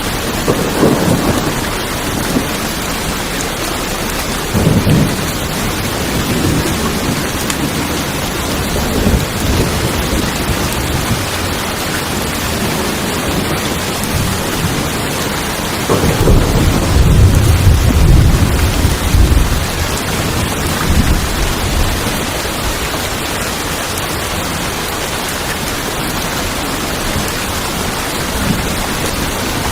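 Steady rain falling on tin roofs, an even hiss, with rolls of thunder: short rumbles about a second in and around five and nine seconds, and a longer, louder roll from about sixteen to twenty seconds in.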